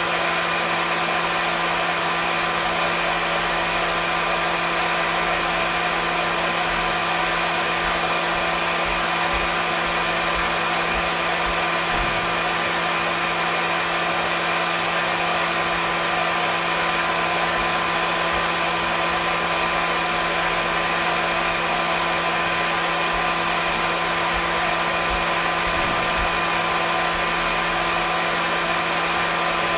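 Hair dryer running steadily: an even rush of blown air with a constant motor hum and whine.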